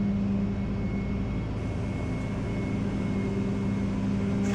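Flatbed tow truck's engine running steadily at idle, a constant hum with a faint high whine over it.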